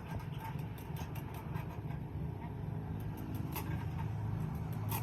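A steady low motor hum with scattered sharp clicks and taps over it.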